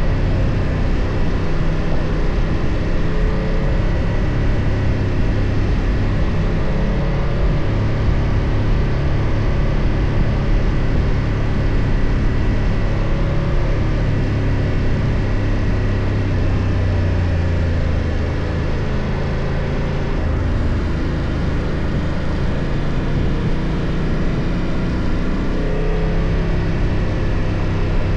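BMW F 800 GS parallel-twin engine running while riding at a fairly steady pace, mixed with wind and road noise. Just past halfway the engine note drops slightly in pitch and eases off, then picks up again.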